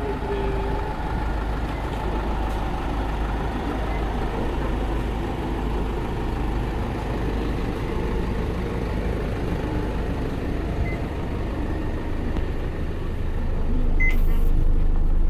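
Bus engine running with road noise heard from inside the moving bus, a steady low rumble that grows louder near the end.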